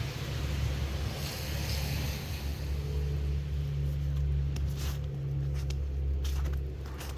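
Steady low outdoor rumble with a hiss above it, broken by a few short clicks in the second half.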